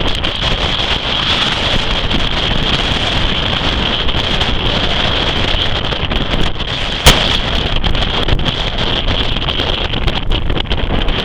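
Wind blowing hard across the microphone, a steady rushing noise, with one sharp click about seven seconds in.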